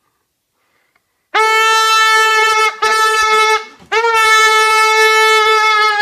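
A horn blown in three long blasts at one steady pitch, starting after about a second of silence; the third blast is the longest.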